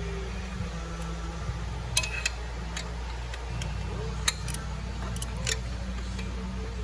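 A handful of sharp, short clicks and taps of hand tools working on engine parts, spread over a few seconds, above a steady low hum.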